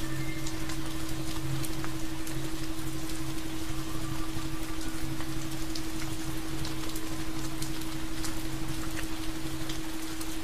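Steady rain falling, a dense patter of drops, with a steady low tone humming underneath.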